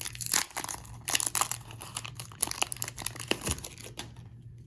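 Wrapper of a 30-year-old 1990 Leaf baseball card wax pack crinkling and tearing as it is pried open by hand, in a run of irregular crackles that die down near the end. The wrapper is stuck fast with age.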